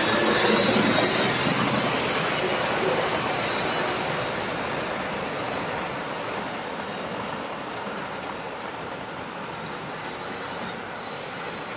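OO gauge model train running along the layout's track, a steady rumble of wheels and motor that is loudest at first and slowly fades as it moves away.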